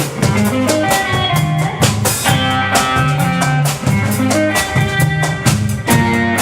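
Instrumental band music: a drum kit keeps a steady beat under a repeating bass line, with sustained melody notes above.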